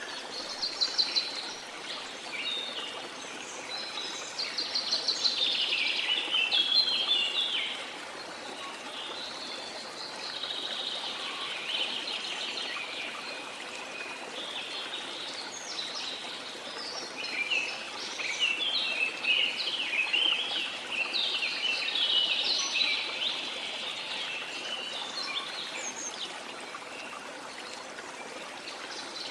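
Small songbirds chirping and singing in repeated rapid phrases over a steady wash of sea waves.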